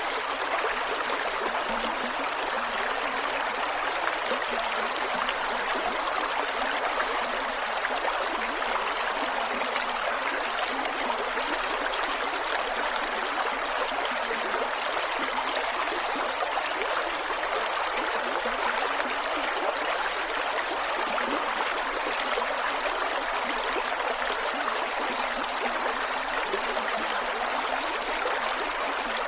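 Creek water flowing over rocks, a steady rushing and gurgling.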